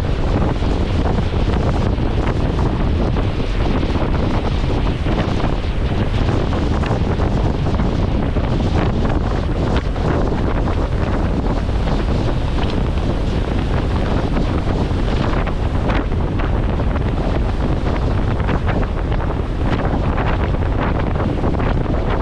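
Strong wind buffeting the microphone on the deck of a moving ferry, a steady rumbling rush, with the boat's engine and the water running underneath it.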